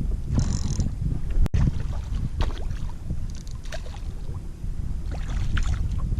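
Water sloshing and splashing against a kayak, over a steady low rumble of wind on the microphone, with scattered small splashes and knocks.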